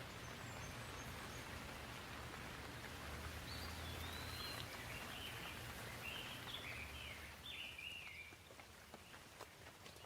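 Gentle rain falling steadily, a soft even patter. About a third of the way in, a bird gives a few short chirping phrases that stop near the end, and a few single drops tick sharply in the last seconds.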